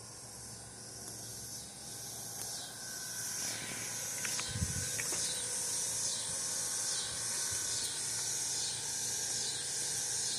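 Ceiling fan on medium speed, its moving air making a hiss that swells over the first few seconds and then pulses about twice a second. There is a soft thump with a couple of clicks near the middle.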